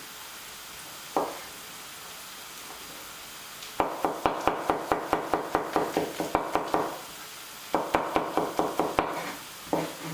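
A knife chopping garlic cloves on a chopping board: a single knock, then two runs of quick chops at about five strokes a second. Onions sizzle steadily in a frying pan underneath.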